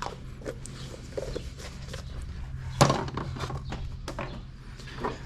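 Scattered light clicks and knocks of parts and tools being handled, with one sharper knock about three seconds in, over a low steady hum.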